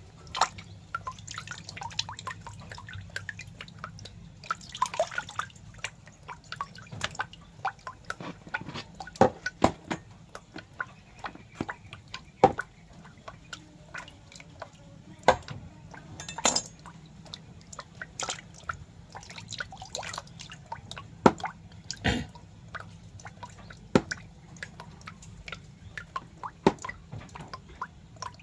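Irregular wet drip-like clicks, a few every second and of varying loudness, over a low steady hum.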